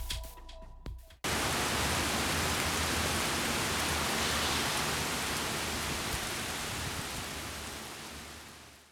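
Steady rain, a dense even hiss that starts abruptly about a second in and fades out over the last couple of seconds.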